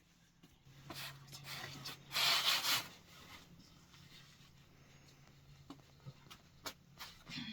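Rubbing, scraping noise: a short scrape about a second in and a louder hissing scrape a little after two seconds, then a few light clicks and knocks near the end.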